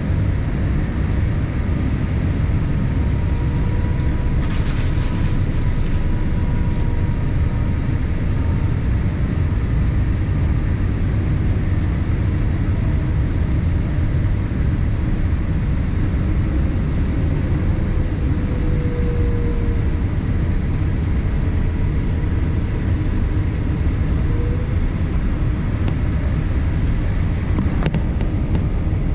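Steady cabin noise inside a Boeing 787-8 airliner in flight: a constant low rumble of airflow and engines, with faint tones drifting slightly in pitch. A few brief clicks come about four to seven seconds in and again near the end.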